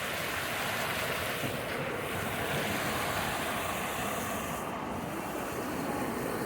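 Fast-flowing stream water rushing over rocks: a steady, even rush with no breaks.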